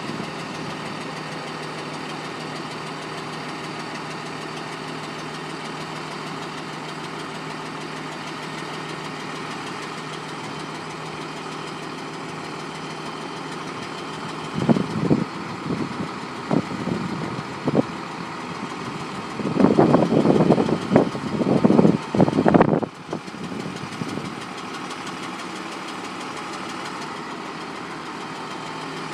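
Truck's 5.9 Cummins diesel idling steadily. About halfway through, a run of loud irregular bursts of noise sits over it for several seconds, then the steady idle goes on.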